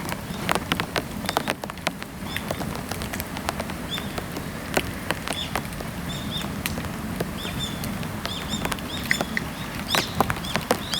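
Dry bamboo burning in a bonfire, crackling with many sharp pops, over a steady patter of rain. Short high chirps repeat through the middle and later part.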